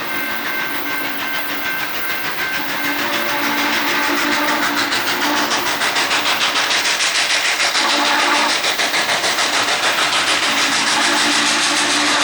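A train passing close by, its wheels clicking in a fast, even rhythm that grows louder from about four seconds in.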